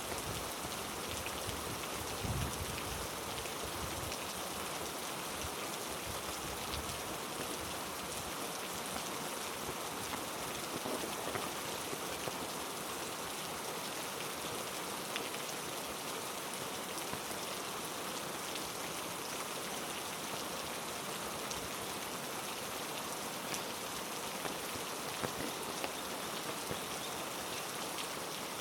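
Heavy rain falling steadily, an even hiss of drops, with a few soft low thumps about two seconds in.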